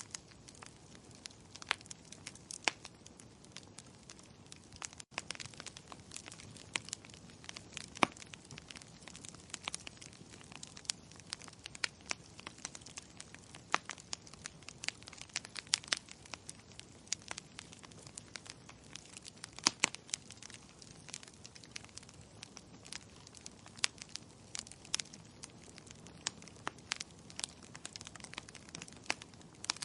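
Fire in a fireplace crackling: a soft steady hiss with frequent irregular sharp pops and snaps, a few of them louder.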